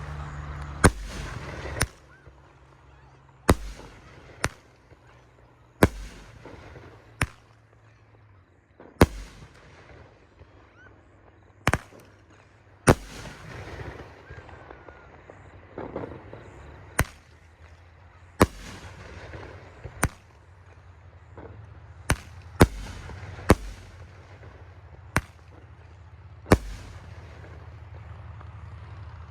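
Riakeo 'Max Load #31' consumer firework firing: a string of about twenty sharp, irregularly spaced shots and bursts, with a hissing haze between them.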